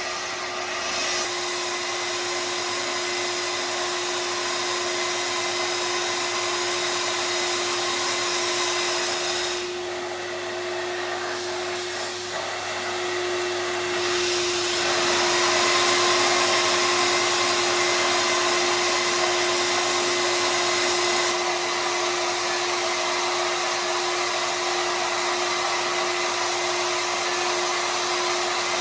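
Steady whirring machine noise with a constant hum, easing off briefly about ten seconds in.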